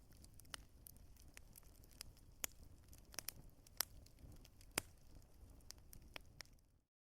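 Wood fire crackling, with irregular sharp pops and snaps over a low steady rumble. The sound cuts out completely for a moment near the end, then comes back.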